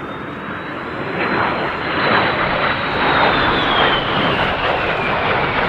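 Jet aircraft flying past, the engine noise growing louder, with a high whine that drops steadily in pitch from about three seconds in as it passes.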